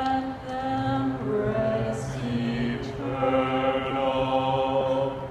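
Several voices singing long held notes together in a chant-like chord, the notes shifting every second or two, with a lower note joining about a second in.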